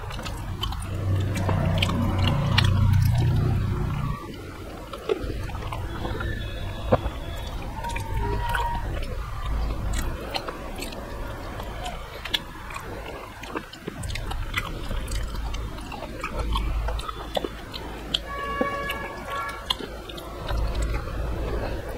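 Chewing and mouth noises of a man eating rice and vegetable curry by hand, with many small clicks and wet sounds of fingers mixing food on a metal tray.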